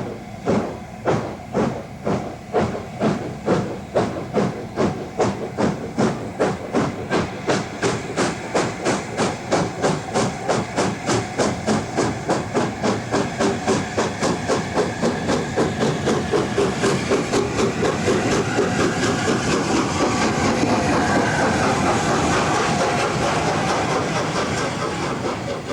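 LNER A4 Pacific 4468 Mallard, a double-chimney steam locomotive, starting away. Its exhaust beats quicken steadily from under two a second until they blur into a continuous rush that grows louder as it gathers speed.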